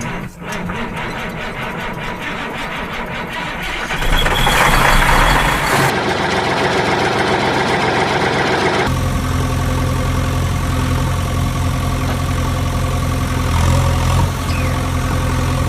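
Engine running, heard in several abruptly cut segments; from about nine seconds in it settles into a steady, even low hum.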